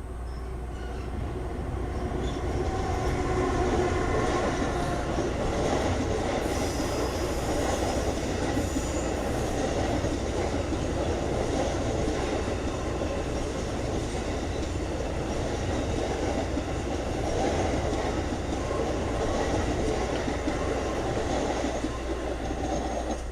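Amtrak passenger train passing, a steady rumble and rattle of wheels on rail that builds over the first few seconds, with a brief high-pitched hiss about seven seconds in.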